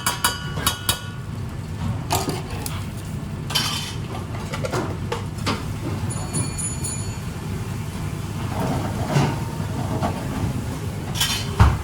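Dishes and utensils clinking and knocking as kitchenware is handled: a quick run of ringing clinks at the start, scattered knocks, and one louder knock near the end, over a steady low hum.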